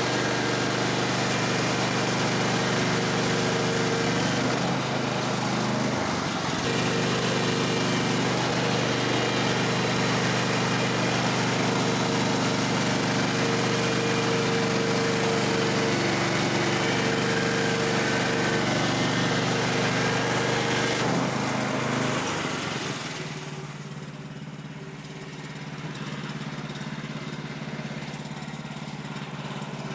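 Woodland Mills HM126 bandsaw sawmill's small gasoline engine running steadily at working speed, with a hiss over the engine note. About 23 seconds in it drops to a lower, quieter running as the hiss fades.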